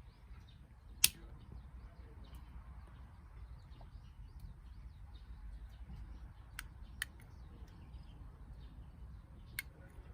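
Wood campfire crackling, with a sharp pop about a second in and a few smaller pops later, over a low steady noise.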